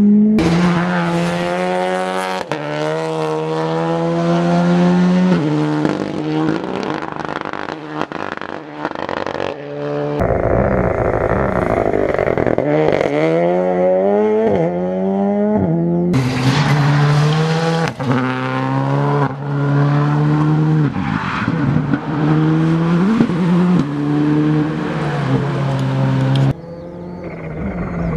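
Rally cars at full throttle on a special stage, engines revving hard and climbing in pitch, then dropping sharply at each gear change. Several separate car passes follow one another.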